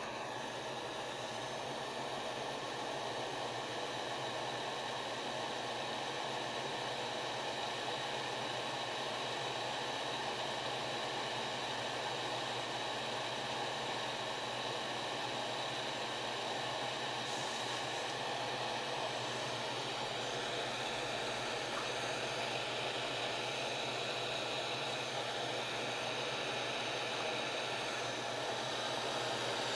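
Hot-air soldering gun blowing steadily: a continuous rush of air from its fan, with a faint high whine.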